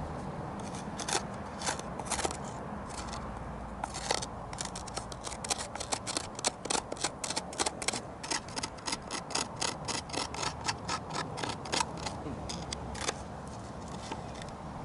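A blade scraping and carving wood in short, sharp strokes, a few at first and then about three or four a second, as charred wood is gouged out of a wooden vessel.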